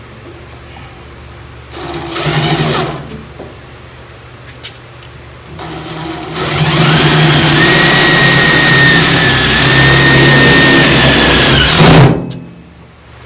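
Electric drill running in two bursts, a short one about two seconds in and then a longer run of about six seconds, with a whine that spins up at the start and winds down as it stops. It is working screws or holes through the sheet-metal patch panel.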